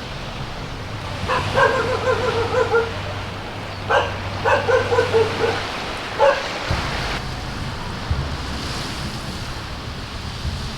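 Waves washing on the shore, with a few drawn-out, wavering animal calls in the first half, each lasting up to about a second and a half.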